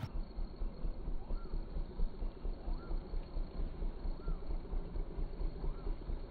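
Slowed-down recording of a Royal Enfield Bullet Classic 350's single-cylinder engine passing by, stretched into a deep, uneven low throb that pulses a few times a second. Four faint rising-and-falling tones come through above it, evenly spaced.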